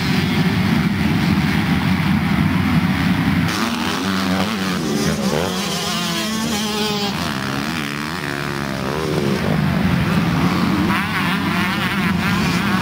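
Motocross dirt bike engines running on the track, their pitch rising and falling several times through the middle as the throttle is worked.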